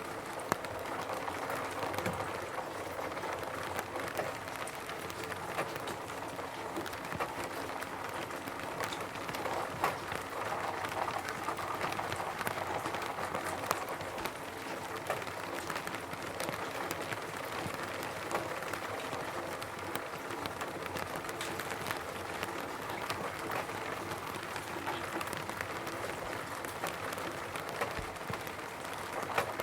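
Rain falling on a roof: a steady hiss of rain with many separate sharp drop hits standing out from it.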